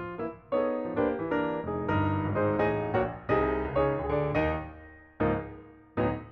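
Background piano music: a run of notes, then a few separate chords that ring out near the end.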